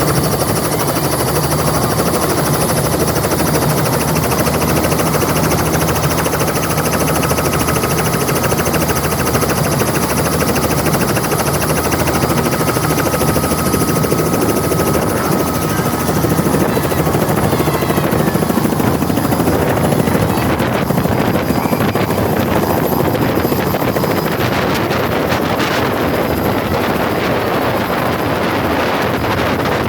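Helicopter running close by, its rotor and engine loud and steady. The sound changes about two-thirds of the way through, as a thin whine drops out and the rotor noise turns more fluttering.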